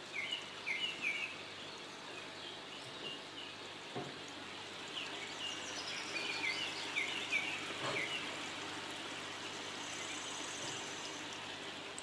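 Small songbirds chirping and singing in short repeated phrases over a steady hiss of trickling and bubbling water from a small indoor jet fountain and aquarium aerator.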